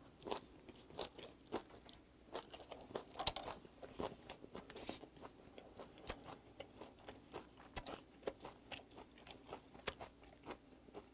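A person chewing a mouthful of raw flounder sashimi close to a clip-on microphone: irregular wet clicks and soft crunches, a few a second.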